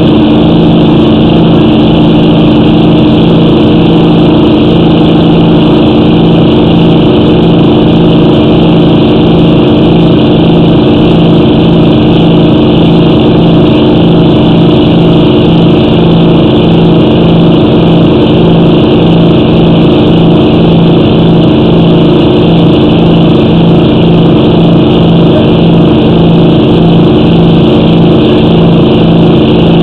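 Small engine running steadily at a constant speed, with a regular pulsing beat in its drone.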